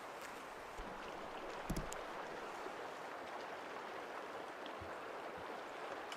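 Small lake waves lapping with a steady, faint wash, and two soft knocks close together a little under two seconds in.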